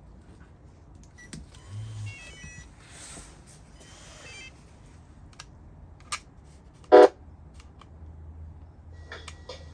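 Lesu sound module of a 1/14-scale RC truck being switched on: scattered clicks and a few short electronic beeps, then one brief loud tone about seven seconds in, followed by a faint low hum near the end.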